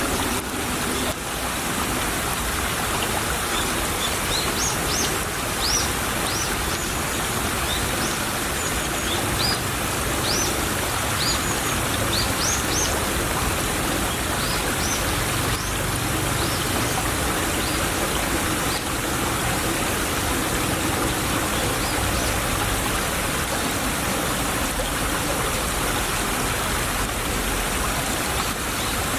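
Stream of water babbling and trickling steadily. A run of short, high, rising chirps sounds through the first half.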